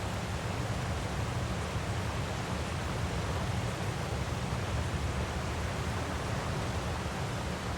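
Steady rushing of a waterfall, with a deep low rumble underneath and no change throughout.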